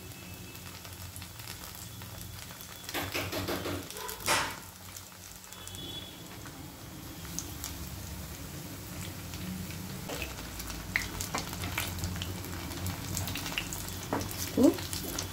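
Breadcrumb-coated paneer lollipops deep-frying in hot oil: a steady sizzle with scattered crackling pops, swelling louder about three to four seconds in as another lollipop goes into the oil. Near the end a slotted metal spoon clinks against the pan.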